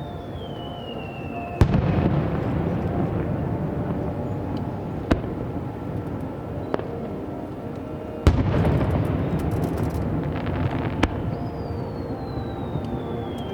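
Aerial fireworks shells bursting with five sharp bangs, each followed by a long rumbling echo. A burst of fine crackling comes just after the fourth bang. Near the end, a whistling shell gives a steadily falling whistle.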